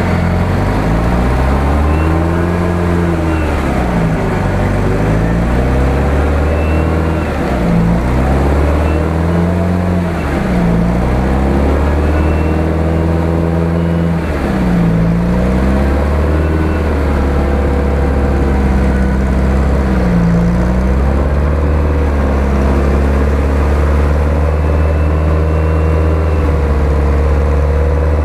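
UAZ-469 off-roader's engine revving up and down again and again as it pushes through deep mud, settling to steadier revs about two-thirds of the way in.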